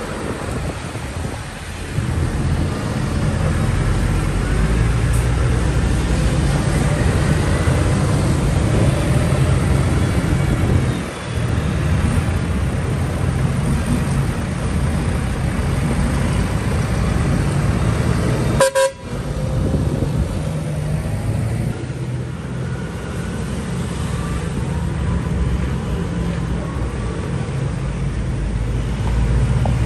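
Tractor engines running steadily, with a vehicle horn tooting. The sound breaks off sharply for a moment about two-thirds of the way through.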